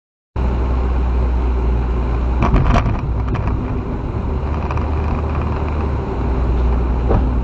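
Steady low rumble of a vehicle driving, engine and road noise as a dashcam picks it up, cutting in suddenly just after the start. A few sharp clicks or knocks come about two and a half seconds in, and one more near the end.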